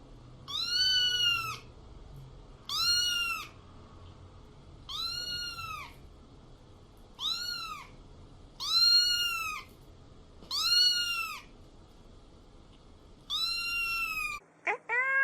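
Cat meowing, seven separate high meows about two seconds apart, each rising and falling in pitch. Near the end the background drops out and a lower-pitched meow follows.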